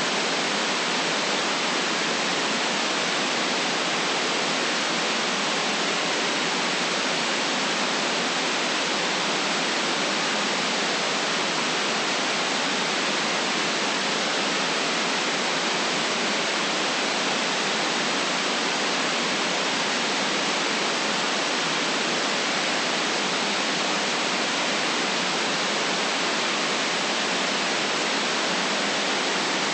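Steady white noise: an even, unchanging hiss with the deep bass and the very highest treble cut away.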